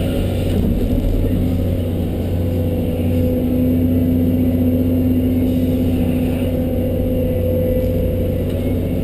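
John Deere 650D LC excavator's diesel engine running steadily under working load, with a steady hum that grows stronger about three seconds in and again near the end.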